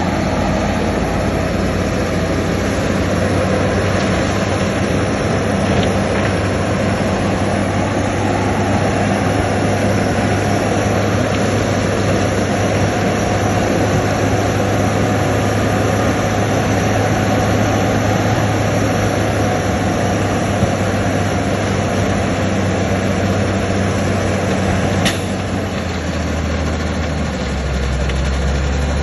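Heavy diesel engine of earthmoving machinery running steadily under a dense mechanical rumble. About 25 seconds in there is a sharp click, after which the engine note drops a little and runs slightly quieter.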